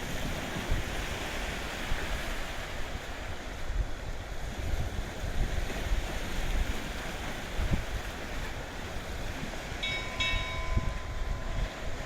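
Wind buffeting the microphone in gusts over a steady hiss of sea water. About ten seconds in, a short pitched sound is heard twice.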